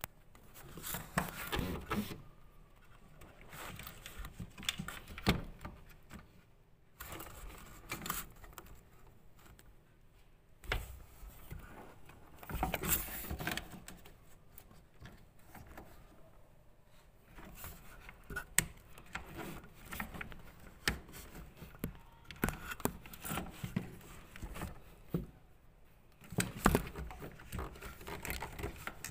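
Irregular clicks, knocks and scraping of parts and tools being handled during dishwasher repair, in clusters with brief pauses.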